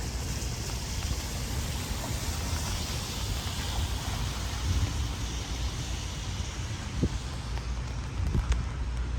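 Strong storm wind rushing and buffeting the microphone with a steady low rumble, broken by a couple of short knocks in the last few seconds.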